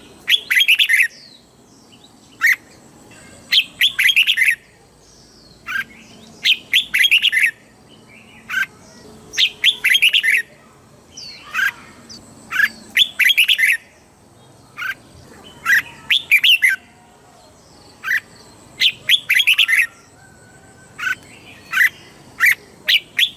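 Red-whiskered bulbul singing its song over and over, one phrase about every three seconds. Each phrase is a few short sharp notes followed by a quick, rich warble.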